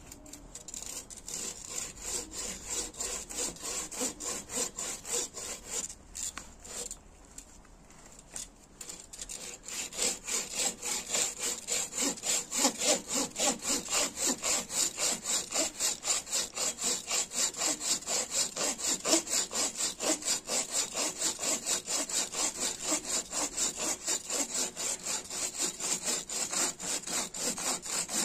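Hand saw cutting wood in quick, even strokes, about three a second; the sawing pauses briefly after about six seconds, then starts again steadier and louder until near the end.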